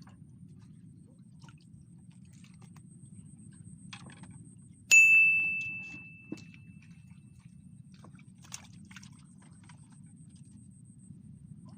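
A single bright metallic ding, struck once about five seconds in and ringing out as it fades over about two seconds, over a low steady rumble with a few small clicks.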